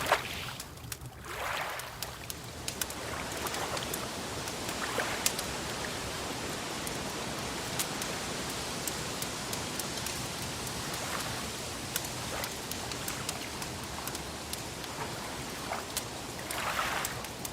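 Wood fire crackling: scattered sharp pops and snaps over a steady hiss, with gentle water lapping that swells softly near the start and again near the end.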